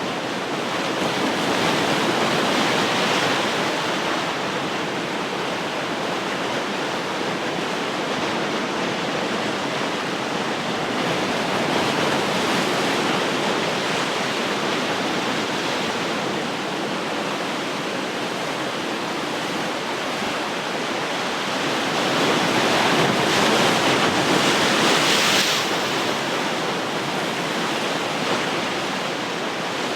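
Ocean surf: a steady wash of waves breaking on the shore, swelling louder twice, briefly a few seconds in and more strongly about three-quarters of the way through.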